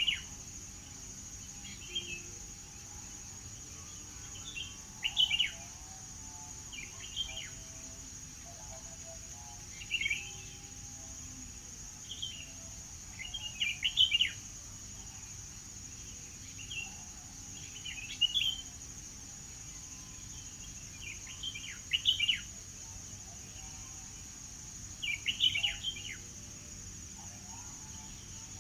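A songbird chirping in short, quick phrases that repeat about every two seconds, over a steady high-pitched hiss in the background.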